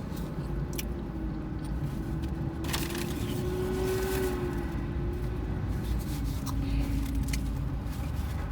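Chewing a bite of spicy chicken wrap, with a few soft clicks and crunches. A steady low rumble runs underneath, and a faint held hum comes in the middle few seconds.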